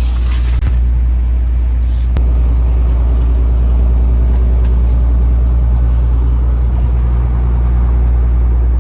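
A fishing trawler's engine running steadily: a loud, even low drone heard on board.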